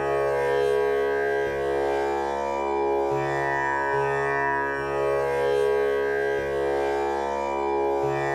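Tanpura drone at the C# male pitch: its strings are plucked one after another in a slow, repeating cycle, each note ringing on into the next so the drone never breaks.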